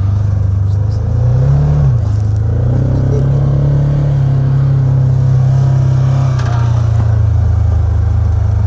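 Engine of a small vehicle driving over snowy trails: the engine picks up about a second in, holds a higher steady pitch through the middle, then eases back down near the end.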